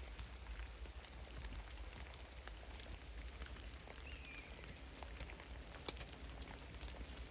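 Meltwater drops falling from melting snow in a forest: soft, irregular ticks and patters over a steady low rumble. A faint, short chirp comes just past the middle.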